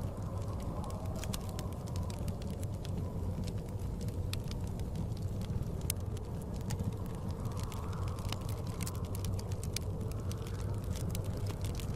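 Wood fire crackling with scattered sharp pops, over the steady low rush of blizzard wind that swells and eases every few seconds.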